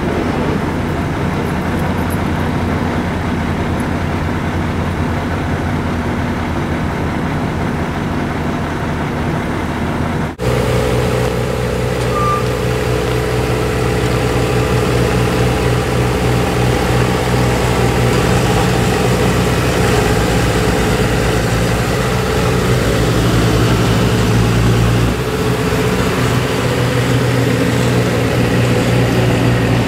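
Steady vehicle engine hum with road noise. It breaks off abruptly about ten seconds in, and a stronger, steadier engine hum follows.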